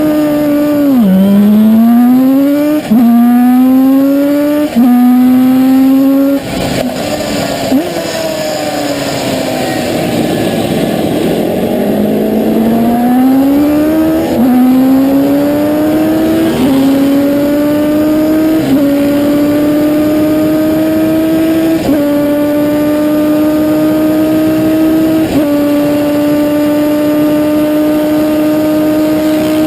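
Koenig 500 racing motorcycle's 494cc four-cylinder two-stroke boxer engine accelerating hard through the gears. The pitch rises and drops back at each upshift. About six seconds in the note falls away as the bike slows, then it pulls up through the gears again and holds a high, nearly steady note.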